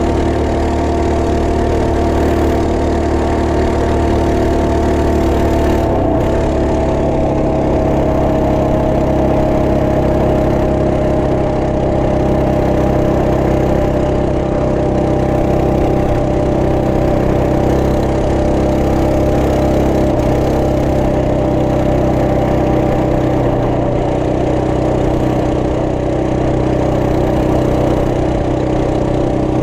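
Trail Master MB200 minibike's 212cc single-cylinder four-stroke engine running steadily under way. Its pitch eases down slightly about six seconds in, then holds steady.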